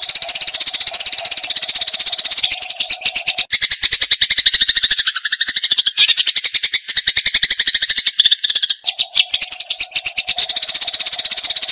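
Eurasian tree sparrows giving the fast, continuous chattering of a sparrow fight, many sharp chirps a second. From about three and a half to nine seconds in the chatter drops lower in pitch, and a steady low tone under it stops for that stretch.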